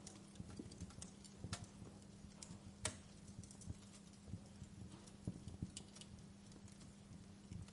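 Wood fire crackling, with sharp irregular pops, the loudest about three seconds in, over a low steady hum.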